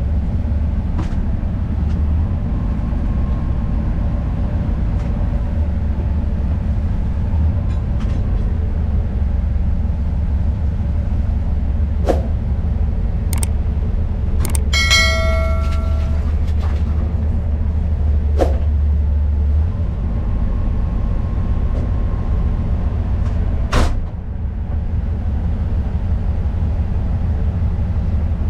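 TU7A narrow-gauge diesel locomotive running with a steady low rumble. Several sharp metallic knocks break in, and a short high-pitched tone sounds for about a second midway.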